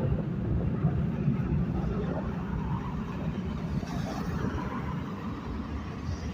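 Four General Electric CF6-50 turbofans of a departing Boeing E-4B (747-200) making a steady low jet rumble that slowly fades.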